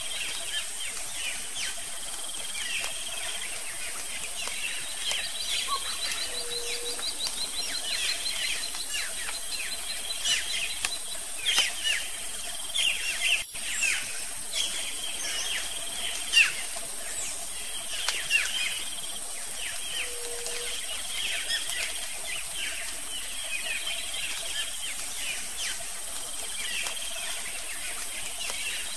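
Birds chirping and calling, with many quick falling notes and short trills, a few louder calls around the middle, over a steady high hiss.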